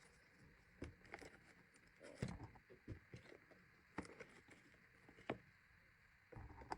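Faint scattered clicks, taps and light rustles of small items and packaging being handled, with the loudest knock a little over two seconds in.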